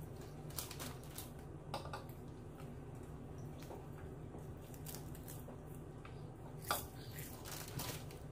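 Chewing crispy roasted seaweed sheets, with a few sharp crunches scattered through it over a steady low hum.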